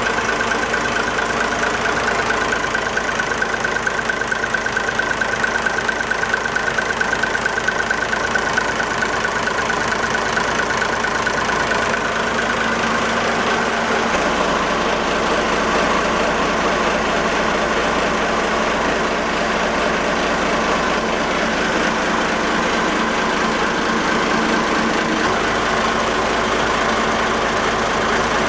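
A 49-foot fishing boat's inboard engine running steadily.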